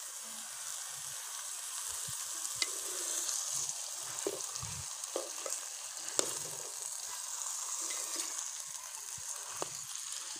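Semolina halwa sizzling in ghee in a steel karahi, a steady frying hiss, with occasional clicks and short scrapes of a metal spatula and fork stirring it against the pan.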